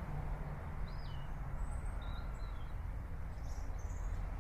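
Outdoor ambience: a steady low rumble and hiss with a few short, faint bird chirps and whistles over it.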